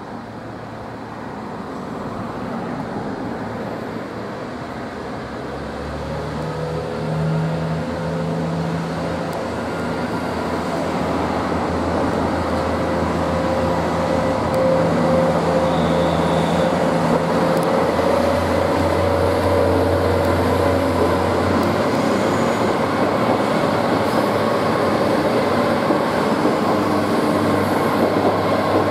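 Resort Shirakami hybrid diesel train pulling away from the platform and passing close by. Its engine hum and a rising motor whine grow steadily louder as it approaches.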